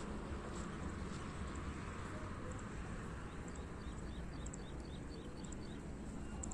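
Outdoor ambience with a low steady rumble, over which a bird calls in a quick series of short chirps, about four a second, starting about three seconds in and stopping shortly before the end.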